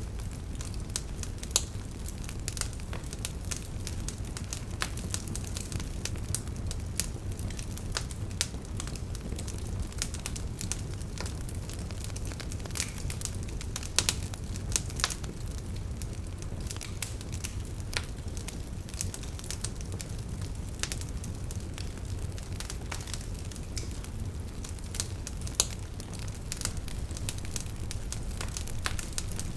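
Wood fire crackling: irregular sharp pops and snaps over a steady low rumble, with a few louder pops.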